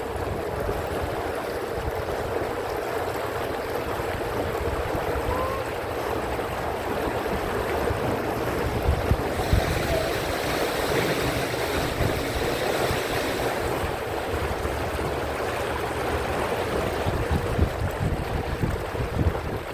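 Canal tour boat under way: a steady motor hum over water noise, with wind buffeting the microphone. A brighter rushing hiss swells for a few seconds past the middle.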